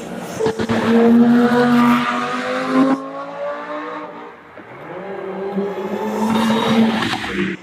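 Supercar engine with a loud exhaust accelerating past, with a few sharp cracks near the start, then fading. A second car builds up near the end and cuts off suddenly.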